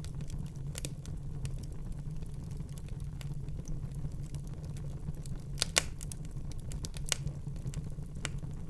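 Wood fire in a fireplace crackling, with scattered sharp pops over a steady low rumble of the flames. The loudest pop comes a little under six seconds in, and a few smaller ones follow near the end.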